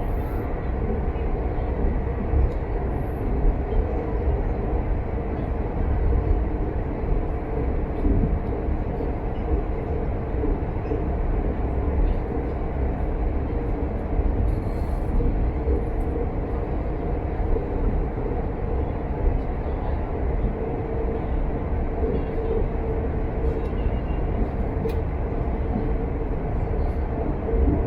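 Passenger train running at speed on the rails, heard from on board: a steady low rumble with a faint steady hum and a few light ticks.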